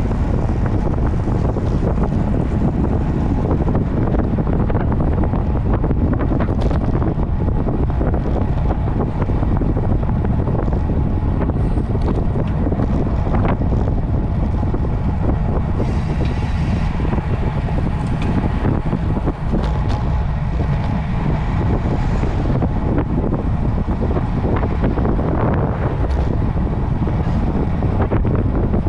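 Wind buffeting the microphone of a camera on a road bike ridden at speed: a steady, loud low rumble with no let-up.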